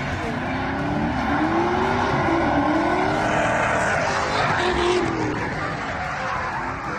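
LS2 V8 drift car revving up and down as it slides, with the rising and falling engine note over the hiss of tyres skidding on the track.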